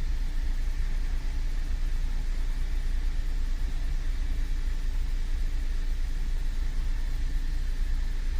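2013 Cadillac CTS 3.0's V6 running with the drivetrain turning, a steady low rumble. The driveshaft has been rotated one notch on the differential to phase it, and the vibration is now low enough that it is unlikely to be felt.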